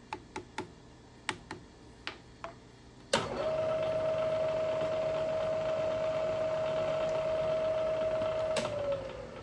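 A few sharp clicks, then a milling machine's spindle motor switches on and runs with a steady hum. Near the end a click shuts it off and the pitch falls away as the spindle coasts down.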